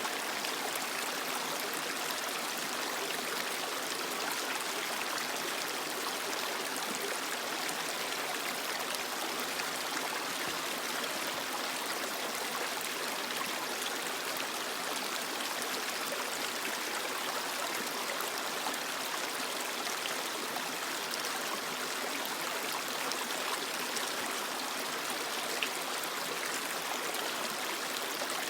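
Creek water flowing steadily over rocks, a continuous even rush and babble.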